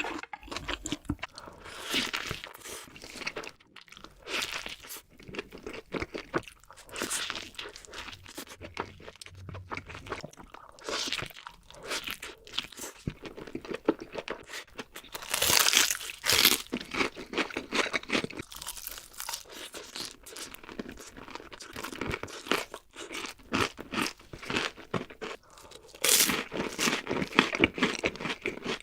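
Crunchy food being bitten and chewed: a dense, irregular crackle of crunches, with louder bursts of bites now and then.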